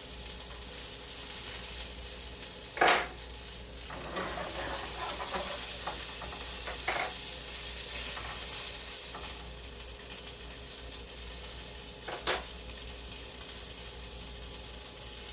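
Halved mild Italian sausage sizzling steadily as it fries in a pan, with two brief louder clatters about three seconds in and again about twelve seconds in, and a few smaller ones between.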